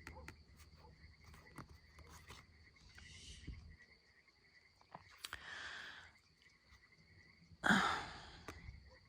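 Quiet pause filled with faint scattered clicks and three short soft swishes, the loudest near the end, over a faint steady high tone.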